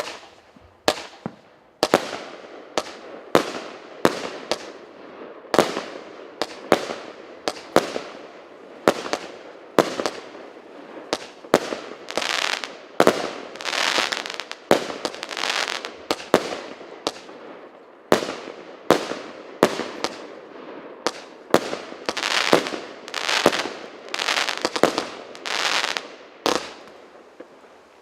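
Multi-shot consumer fireworks battery (cake) firing shot after shot, about one to two a second. Each shot is a sharp bang followed by crackling, and the volley eases off near the end.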